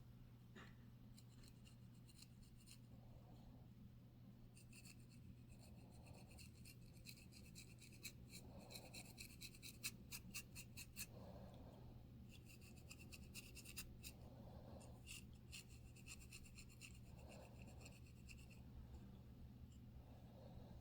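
Faint scratching of a dandruff-flaked scalp: quick, rasping strokes in runs, busiest in the middle, over a steady low hum.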